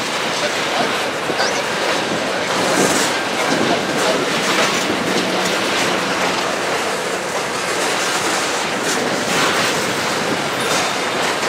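Freight train of tank cars rolling past: a steady rush of steel wheels on rail with clickety-clack over the rail joints, and a brief faint wheel squeal near the end.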